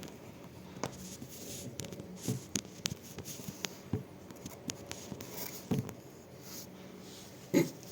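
Cat licking: a loose run of small wet clicks and taps at an uneven pace, with a few soft knocks and one louder thump near the end.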